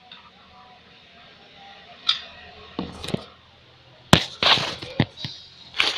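Sharp clicks and knocks of hard parts being handled, a scattered series starting about two seconds in and coming thicker near the end.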